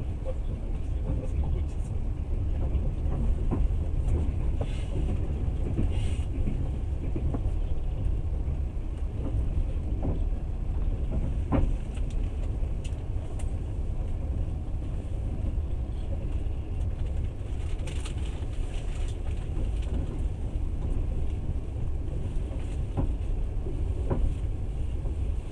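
Passenger train running, heard from inside the carriage: a steady low rumble with a few scattered clicks and knocks.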